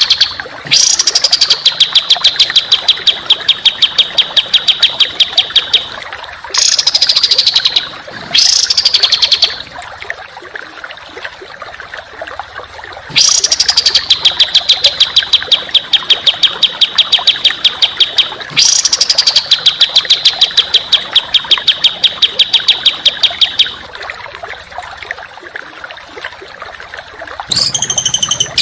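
Songbird masteran recording of harsh, rapid-fire 'tembakan' phrases: fast rattling trills of about ten notes a second, each phrase lasting up to about five seconds with short pauses between them, over a steady background hiss. Near the end a different, clearer whistled call comes in.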